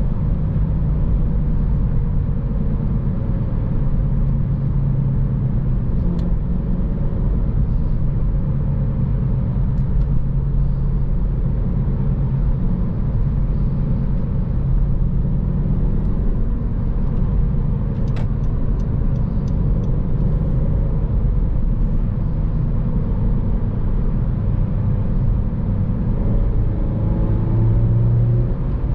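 2014 Honda Civic Si's four-cylinder engine running with road and tyre rumble while driving at a steady pace, the engine note rising a little near the end.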